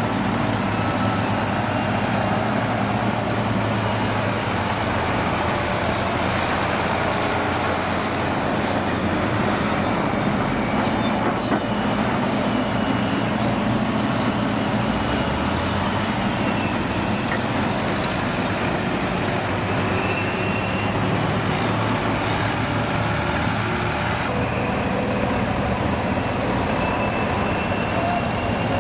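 Diesel engines of heavy trucks or construction machines running steadily, a continuous low drone with no break.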